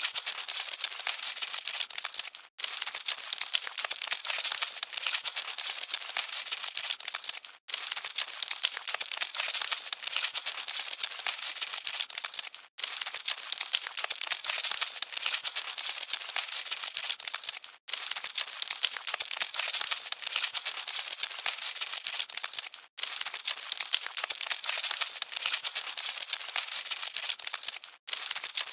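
Cockroaches scuttling: a dense, fine crackling and rustling, all high with nothing deep. It repeats as a loop about every five seconds, with a brief dropout between passes.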